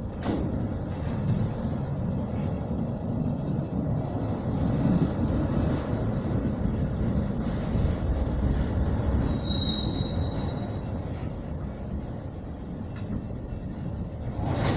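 Freight train tank cars rolling past: a steady rumble of steel wheels on the rails, with a few knocks and a brief high squeal from the wheels about ten seconds in.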